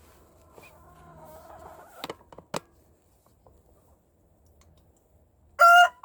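A rooster starts crowing loudly near the end, a short note followed by a long held one. Before it, faint clucking and two sharp clicks.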